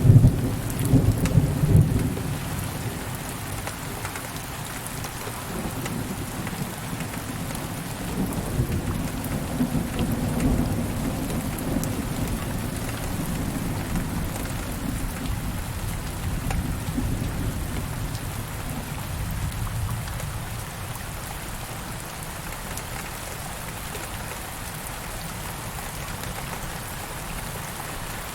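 Steady rain falling, with rolls of thunder: a loud low rumble in the first two seconds, further rumbling through the middle, dying away in the last third.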